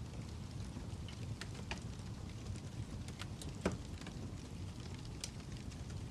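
Wood fire crackling: a steady low rumble with scattered sharp pops and snaps, the loudest pop about halfway through.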